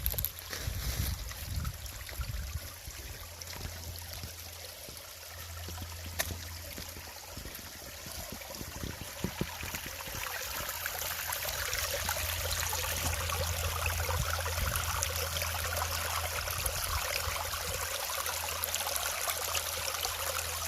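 A stream of water flowing and trickling steadily, with a low rumble underneath; the flow grows louder about ten seconds in.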